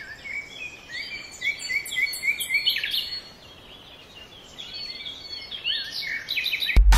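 Small birds chirping: series of short, quick chirps, a rapid run of them about a second and a half in and more near the end, over a faint steady background hiss.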